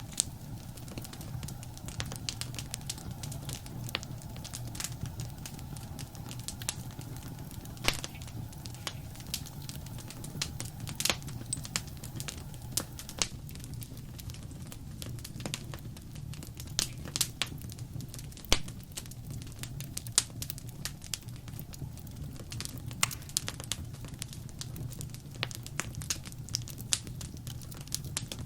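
Wood fire crackling: irregular sharp pops and snaps, a few of them louder, over a steady low rumble of the flames.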